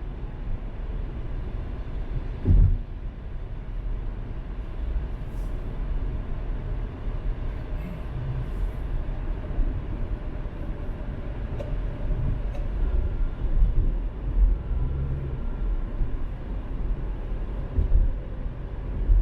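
Car driving: a steady low road and engine rumble, with a couple of short low thumps, one about two and a half seconds in and one near the end.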